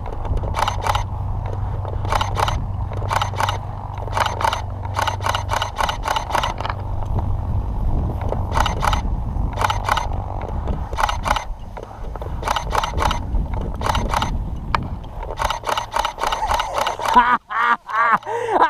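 Wind rumbling on the microphone, with many short gusts buffeting it in irregular clusters.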